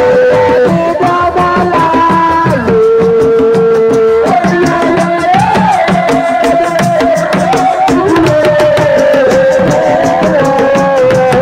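Live Senegalese assiko band music: fast, dense hand-drum percussion under a melody of long held notes that step and glide in pitch, with singing.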